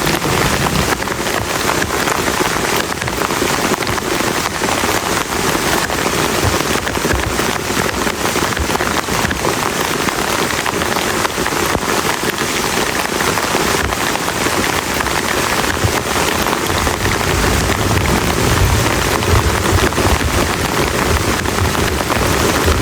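Heavy rain drumming steadily on a plastic tarp, thick with individual drop impacts. A low rumble of distant thunder builds in the second half.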